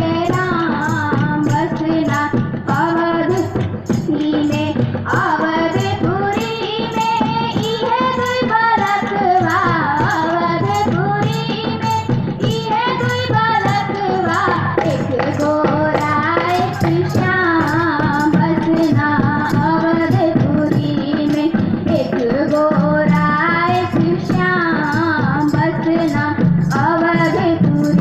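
A song sung with musical accompaniment and a steady percussive beat.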